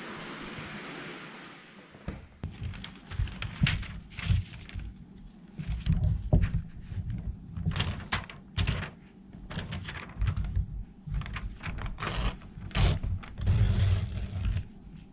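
Irregular clicks, knocks and low thumps of objects being handled and set down, after a steady hiss that stops about two seconds in.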